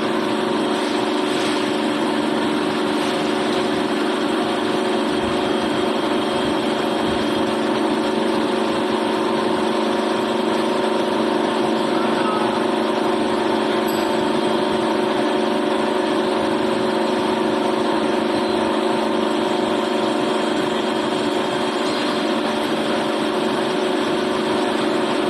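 A machine running steadily with an even hum that does not change.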